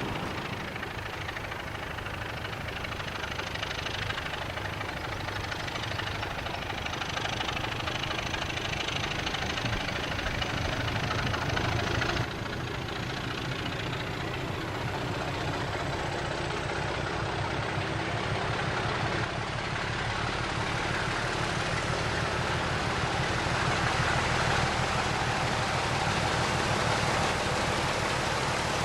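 Model diesel locomotives running on a layout: a steady mechanical running noise of motors and wheels on track. It changes abruptly about 12 seconds in and again about 19 seconds in.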